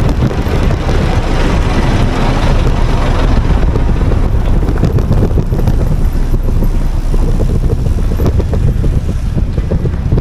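Wind rumbling on the microphone of a moving bicycle, with road noise, a loud steady low rumble that is a little fuller in the first few seconds.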